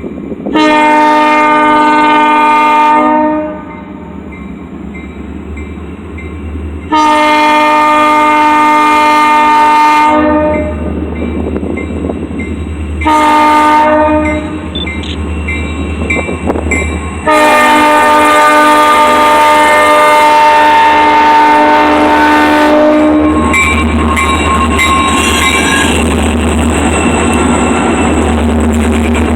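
Diesel locomotive horn blowing the long-long-short-long grade-crossing signal: two long blasts, a short one, then a longer final blast, over the low rumble of the engine. As the horn stops, the train rolls past the crossing with the rumble and rattle of the cars.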